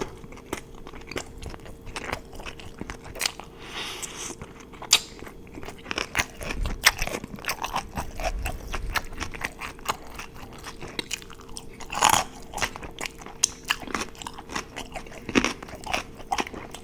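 Close-miked eating: repeated crunchy bites and chewing, a dense run of sharp crunches.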